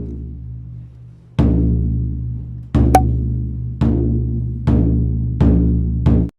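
Large shrine taiko drum struck six times, each beat left to ring low and long, the strikes coming closer and closer together. The sound cuts off suddenly near the end.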